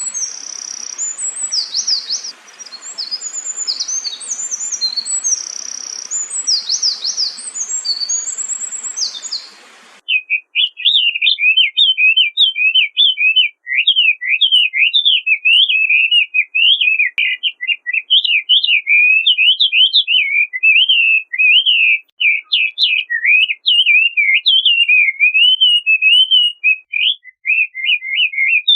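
Songbirds singing: first one bird with high, quick phrases over a faint hiss. About ten seconds in, a sudden change to a different bird's rapid, unbroken warbling song, lower in pitch.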